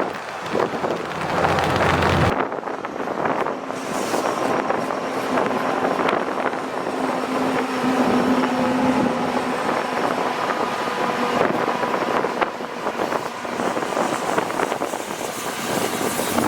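Freight train running past: a steady rumble and rail noise with faint squealing tones and scattered clicks, and wind on the microphone. The sound changes abruptly about two seconds in, where a heavy low rumble gives way to the lighter rolling noise.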